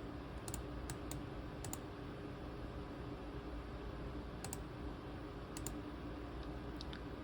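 Laptop keys and buttons on a ThinkPad T23 being clicked: about eight short sharp clicks, several in quick pairs, spread unevenly over a steady low hum.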